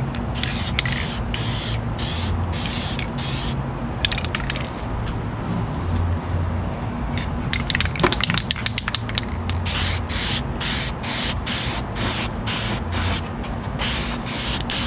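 Aerosol spray-paint can hissing in many short bursts, coming quicker, about two or three a second, in the second half, as paint is sprayed on.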